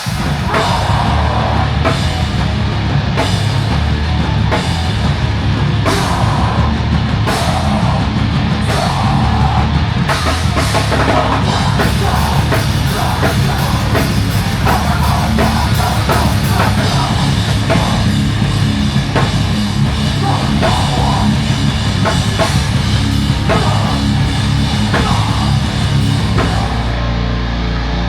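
Loud heavy rock music driven by a drum kit, starting suddenly and holding at full volume.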